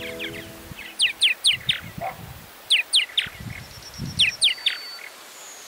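A songbird singing short, repeated phrases, each three or four quick downward-sweeping whistled notes, roughly one phrase every second and a half. At the start the last tones of a music track fade out.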